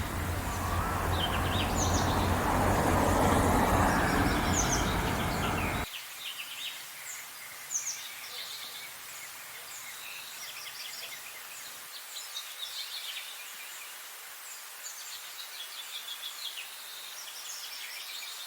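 Songbirds chirping and singing throughout, many short calls overlapping. For the first six seconds a louder low rumble with a steady hum lies under them, building and then cutting off abruptly. After that only birdsong over faint background noise.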